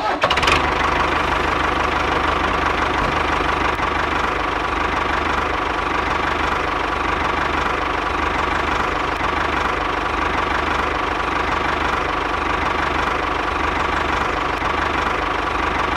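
A small motor running steadily with a steady whine and low hum, likely the drive motor of a DIY mini tractor model.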